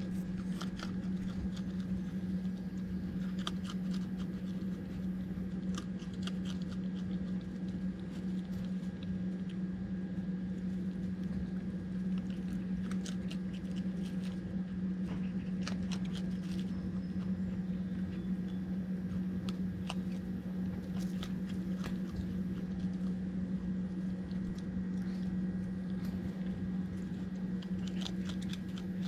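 Raccoon chewing and crunching dry dog food, with many short crisp crunches over a steady low hum.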